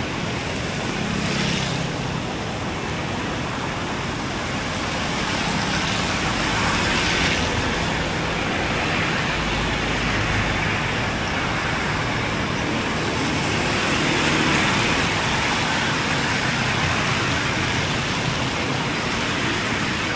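Steady road traffic noise from vehicles passing, swelling louder a couple of times as vehicles go by.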